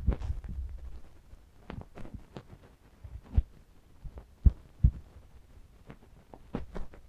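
Soft rubbing and handling right against the microphone, with a few sharp, dull low thumps in the middle and faint clicks.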